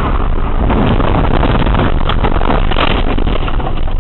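Loud, steady vehicle and road noise picked up by a dashcam's microphone, with a couple of brief sharper noises about two and three seconds in.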